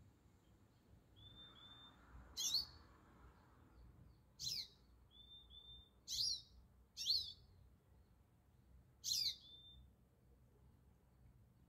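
A songbird calling: five sharp calls, each a quick downward sweep in pitch, spaced one to two seconds apart, with softer short whistled notes in between.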